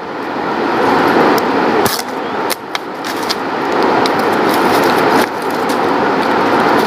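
A steady rushing noise, with a few sharp clicks and knocks over it.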